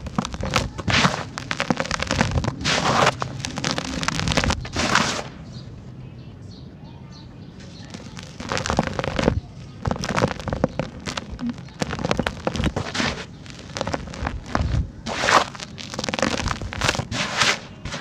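Dry, dusty sand-cement chunks crumbling, a dense run of crackling and crunching that stops for a couple of seconds about five seconds in, then comes back in bursts.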